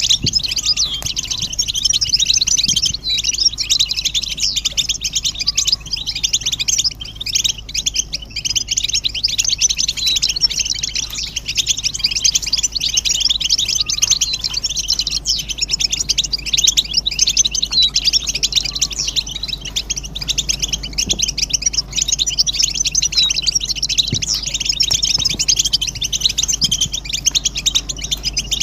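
A flock of European goldfinches twittering and singing together in a dense, unbroken chorus of rapid high chirps. These are the group twitters and mating calls played to stir a silent male goldfinch into song.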